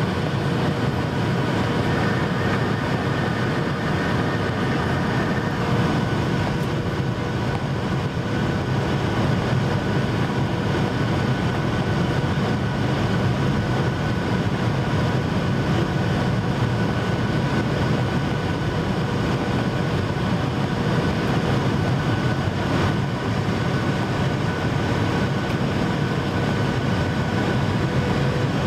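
Steady roar of a Boeing 737-800's CFM56 turbofan engines and rushing air, heard inside the cabin over the wing in flight, with a few faint steady whining tones on top.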